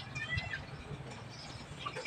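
Faint bird chirps, a few short calls about half a second in, over a steady low hum.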